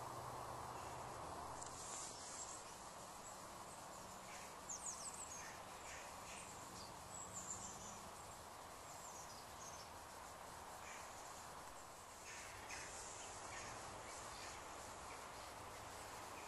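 Quiet outdoor ambience with a steady soft hiss; a small bird chirps briefly about five seconds in and again around seven and a half seconds.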